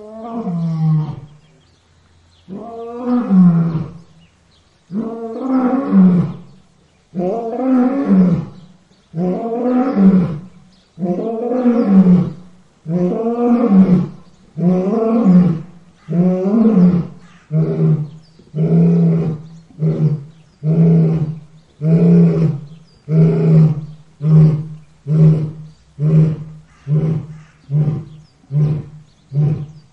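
Lion roaring bout: long, deep moaning roars about two seconds apart, giving way after about half the bout to shorter grunting roars that come faster, about one a second.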